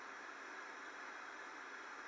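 Steady, faint hiss with no distinct events.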